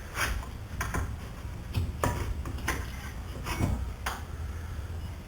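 Scattered metallic clicks and light knocks, about seven of them, as a front brake caliper is worked loose and slid off its rotor, over a steady low hum.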